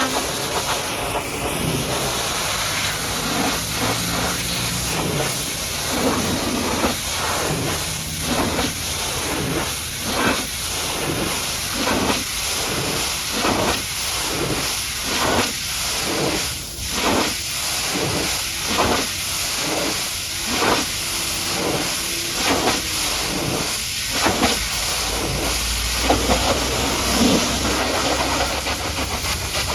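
High-pressure washer jet spraying a muddy truck: a steady hiss that rises and falls about once a second.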